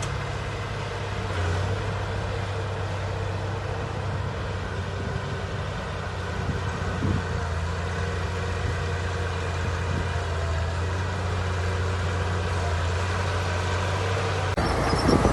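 Heavy diesel engine of earthmoving machinery running steadily with a deep, even drone. Near the end the sound jumps abruptly louder and rougher.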